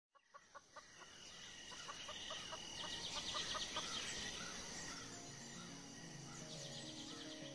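Animated-film forest ambience: birds calling, with a run of short repeated calls and then high chirping trills over a steady high insect-like hum. Low melodic music comes in about five seconds in.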